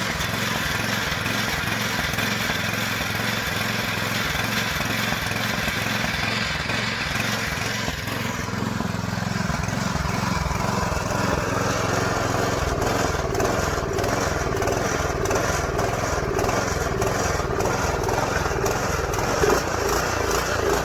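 Snowblower engine running on its own after a no-start repair, left to run so its freshly cleaned carburetor clears itself out; its note changes about eight seconds in.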